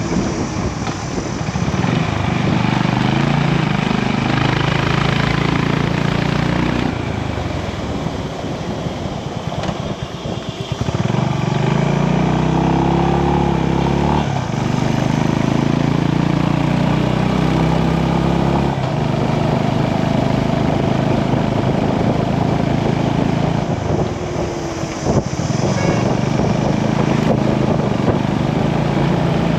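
Motorcycle engine accelerating through the gears, its pitch climbing and then dropping at each shift, several times over, with steady wind noise throughout.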